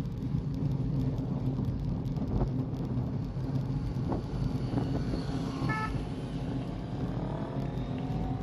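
Car engine running steadily with road noise. A brief high beep sounds about six seconds in, and the engine pitch rises near the end as the car speeds up.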